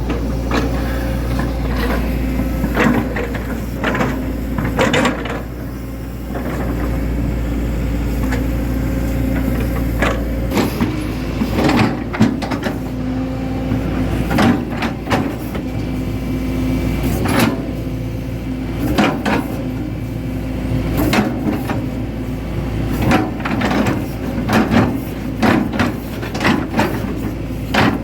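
Hitachi Zaxis 110 excavator's diesel engine running steadily, with irregular sharp clanks and knocks from the machine as it works.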